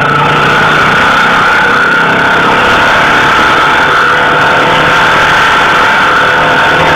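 Royal Enfield Bullet single-cylinder motorcycle engine held at steady revs while the bike is spun in tight circles on the road; the engine note stays level.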